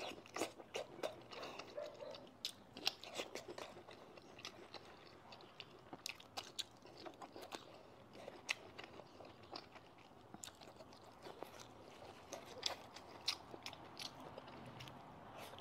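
Close-miked biting and chewing of a green chili pepper: irregular crisp crunches that keep coming through the chewing.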